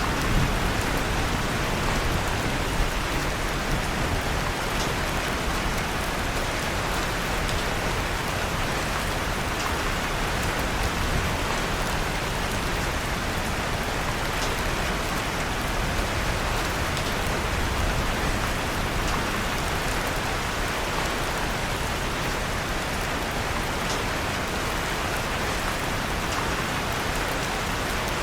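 Steady rain falling, with a few faint scattered crackles from a wood fire in a fireplace.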